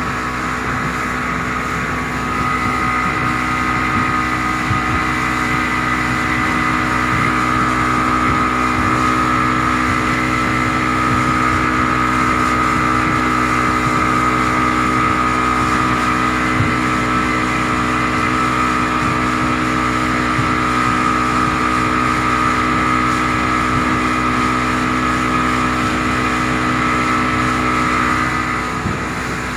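An engine running steadily with a constant whine. The drone grows louder about two seconds in and drops back near the end.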